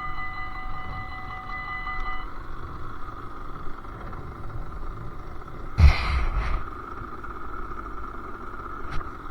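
Sherco SM-R 50cc two-stroke engine with a KRM exhaust running steadily during a ride. A sudden loud thump comes about six seconds in, followed by a short rattle, and a sharp click comes near the end.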